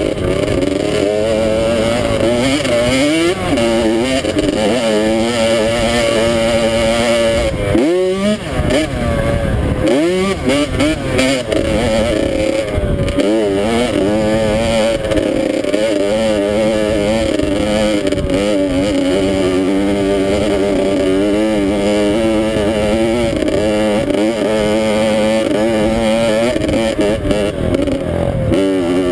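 Dirt bike engine running while being ridden, its pitch wavering with the throttle; the revs dip and climb quickly about eight and ten seconds in.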